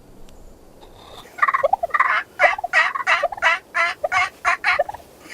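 A run of about ten raspy turkey yelps, roughly three a second, starting about a second and a half in and stopping near the end.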